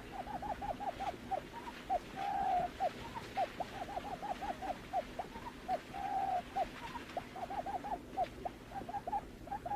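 Buttonquail calling: runs of short, upward-hooked notes, several a second, broken twice by a longer drawn note.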